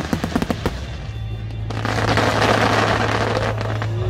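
Aerial firework shells bursting: a rapid string of bangs in the first second, then a dense crackling hiss from the exploding stars that grows louder, over a steady low hum.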